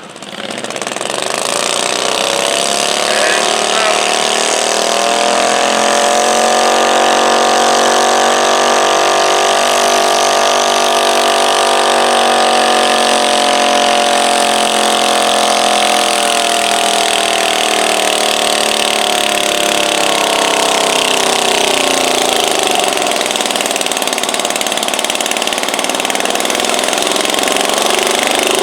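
Stock garden tractor's engine running hard at high revs on a pull. It climbs in pitch about a second in, holds, sags past the middle as it bogs under the load, then picks up again near the end.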